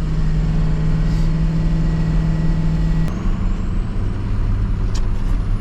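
Ford F550 dump truck's engine running steadily while pulling a full load uphill; its note drops to a lower pitch about three seconds in, and there is a faint click near the end.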